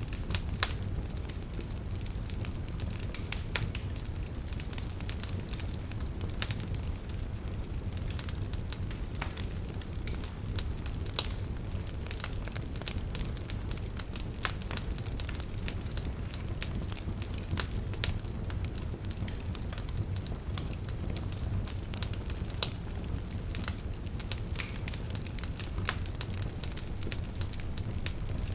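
Wood fire burning in a fireplace: a steady low rumble of flames with continual irregular crackles and snaps, a few louder pops among them.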